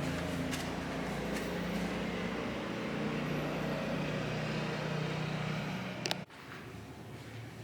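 Steady rumble with a low engine-like hum, like a motor vehicle running nearby. It cuts off abruptly with a click about six seconds in, leaving quieter room tone.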